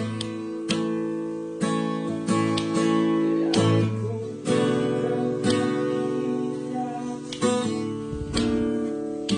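Acoustic guitar strumming chords, roughly one stroke a second, in an instrumental passage between the sung lines of a song.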